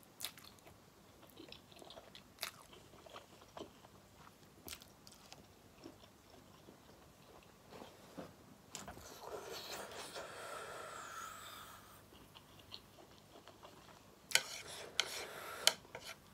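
Close-miked eating: a person chewing and crunching food, with scattered small clicks, a drawn-out noisy stretch of about three seconds in the middle, and a louder cluster of sharp crunches near the end.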